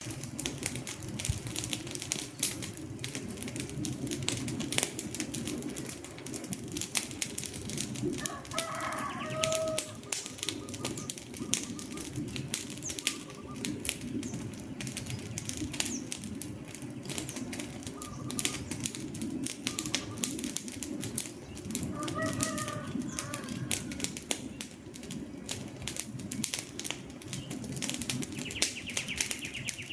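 Wood fire burning with a steady low rush of flame and frequent sharp crackles and pops. Short bird calls come through twice, and a high trill near the end.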